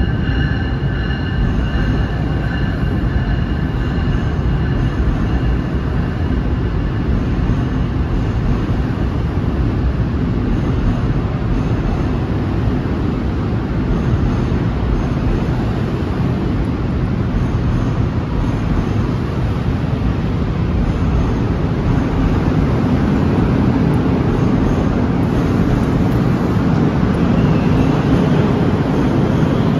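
NJ Transit Multilevel coaches of an arriving train rolling along the platform track: a steady low rumble of wheels on rails, with faint short high squeaks now and then.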